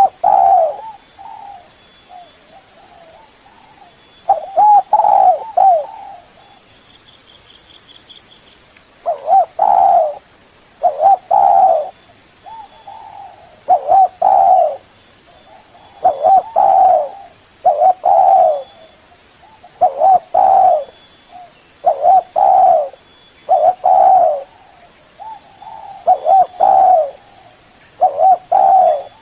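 Spotted dove (tekukur) cooing: short phrases of a few coos each, quieter for the first few seconds and then repeated about every two seconds.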